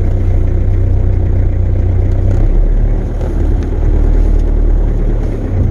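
Ford Ranger's small diesel engine running while the truck drives along, heard from inside the cab, with the cold start knob still pulled out. A steady low drone that dips briefly about three seconds in and again near the end.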